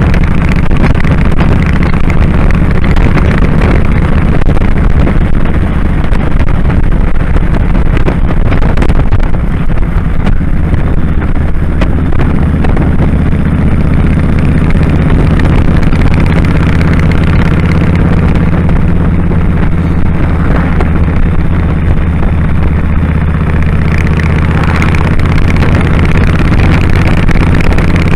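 2001 Kawasaki Drifter 1500's V-twin engine running steadily under way, with wind rushing over the microphone; the engine note shifts slightly about ten seconds in.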